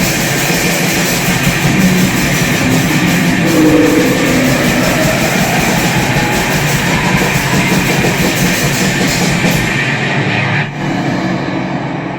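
Grindcore from a guitar-and-drums duo: distorted electric guitar over dense, pounding drums, dropping a little in level near the end.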